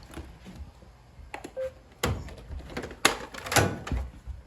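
Robot vacuums being handled and switched on: a short electronic beep about one and a half seconds in, among several knocks and clunks, the loudest ones near the middle and toward the end.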